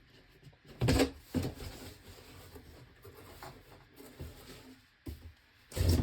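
Handling of a large hardcover book and its packaging: a knock about a second in and a smaller one just after, soft rustling, then another loud knock near the end.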